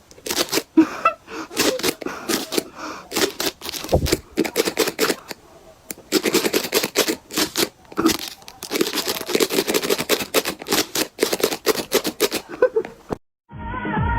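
Dense, irregular crinkling and crackling with many sharp clicks. It stops suddenly near the end, and music starts.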